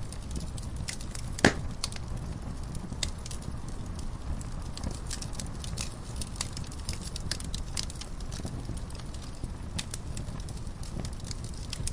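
Wood fire burning in a fireplace: a steady low rumble of flames with scattered sharp crackles and pops, one louder pop about a second and a half in.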